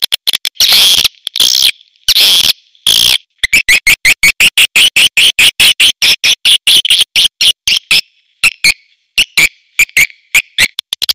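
Swiftlet calls played as a lure sound for a swiftlet house: a few long, buzzy twitters in the first three seconds, then a fast run of short chirps, about eight a second, thinning out to scattered chirps after about eight seconds.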